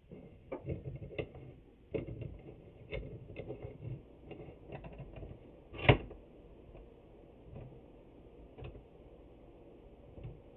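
Scattered clicks and knocks of a large steel C-clamp being handled and screwed tight on glued wooden boards, with one sharp knock about six seconds in, then only a few faint ticks.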